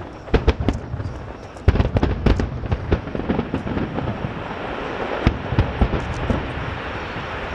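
Aerial fireworks display: a dense run of booms and crackling bursts, with a loud burst about 1.7 s in.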